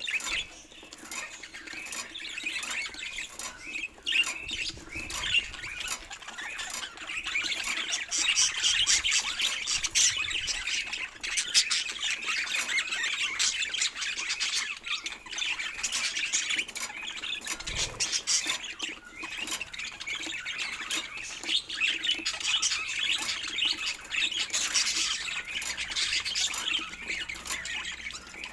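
Budgerigars chattering: a dense, continuous stream of high-pitched chirps and warbles.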